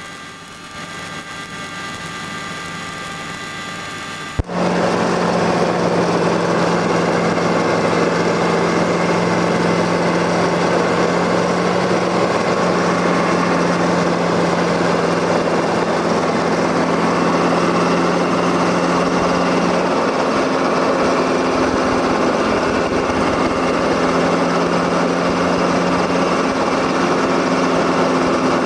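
Steady engine and rotor drone of a small helicopter heard from inside the cabin. It jumps abruptly to a much louder level about four seconds in. Before that it is a quieter, even hum with faint high whining tones.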